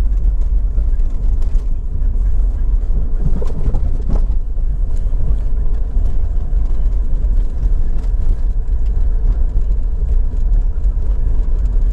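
A vehicle driving along, heard as a steady low road and engine rumble, with a brief louder sound about three and a half seconds in.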